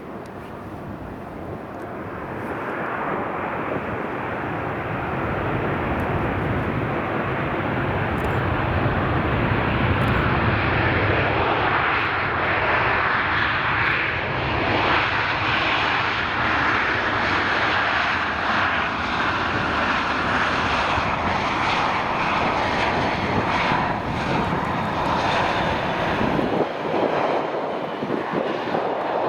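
Jet airliner's engines passing close by, a dense rushing jet noise that builds over the first few seconds and then holds loud and steady.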